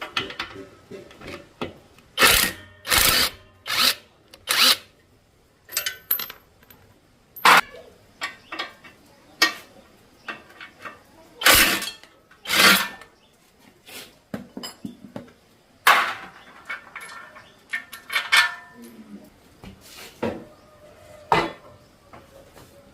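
Tool work on a motorcycle: irregular metal clicks, knocks and clanks, with several louder short bursts scattered through.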